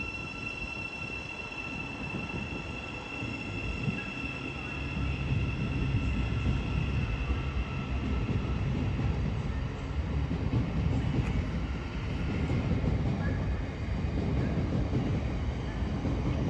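Passenger train moving through a station platform, with a low rumble that builds about five seconds in. A steady high whine fades away over the first several seconds.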